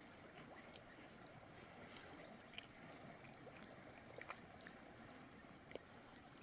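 Near silence: faint outdoor ambience with a steady soft hiss, scattered small clicks and a few short, high chirps.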